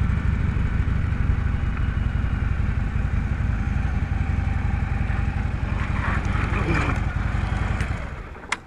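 Harley-Davidson Road King's V-twin engine running at low speed as the bike rolls up to a stop. Near the end the engine sound stops abruptly as the bike tips over, followed by a single sharp click.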